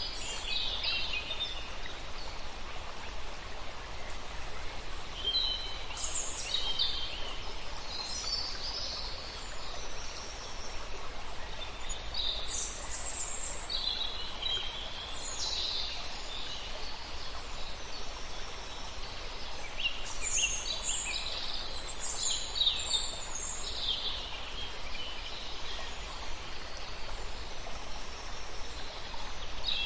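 Wild birds calling and singing: many short, high chirps and trills come and go, busiest in bunches, over a steady background hiss.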